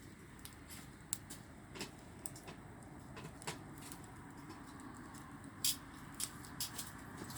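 Wood burning in an outdoor bonfire, crackling with irregular sharp pops, the loudest about a second in and near the end, over a steady low rush of the flames.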